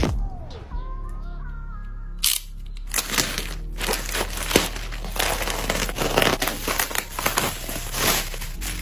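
Packaging being unwrapped by hand, crinkling and tearing in a dense run of rapid crackles from about two seconds in, after a brief pitched sound at the start.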